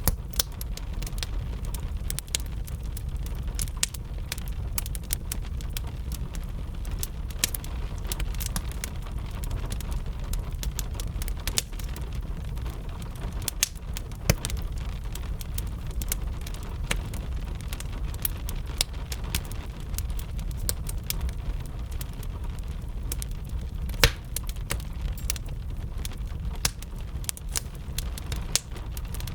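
Wood fire crackling, with frequent irregular sharp pops and one louder pop near the end, over a steady low rumble and gentle rain.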